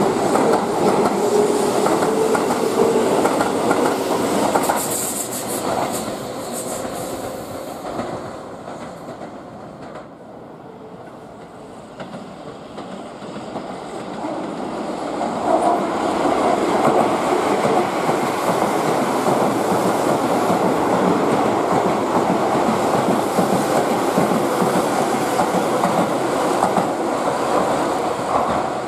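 Keihan electric trains on the track: a train running loud and fading away over the first eight seconds or so, then, after a short lull, an out-of-service Keihan 2200-series train passing through the station without stopping, loud and steady until it eases off near the end.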